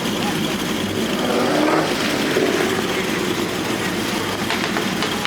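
Car engine running at a car meet, with faint voices in the background about one to two seconds in.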